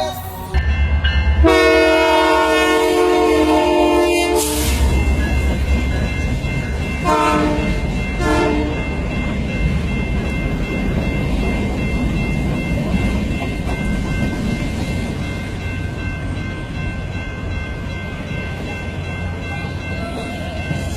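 Locomotive horn on the holiday train: one long blast of about three seconds, then two short blasts, over the steady rumble of the train.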